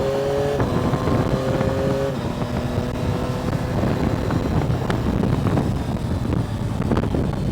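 Motorcycle engine accelerating, its note climbing slowly and breaking off twice with gear changes, about half a second and two seconds in; after that, wind buffeting the helmet-mounted microphone mostly covers the engine as speed builds.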